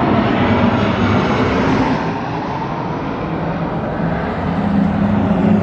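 Engine running steadily with a low hum, easing slightly about two seconds in and picking up again near the end.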